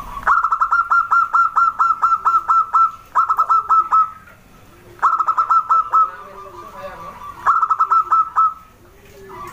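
Zebra dove (perkutut) singing: bouts of rapid, evenly paced staccato notes, about six a second, broken by short pauses, four bouts in all.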